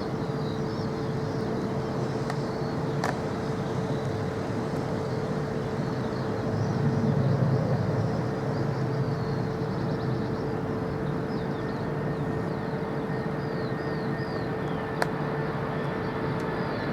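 Steady distant engine rumble with a constant hum, swelling a little about seven seconds in, while small birds chirp.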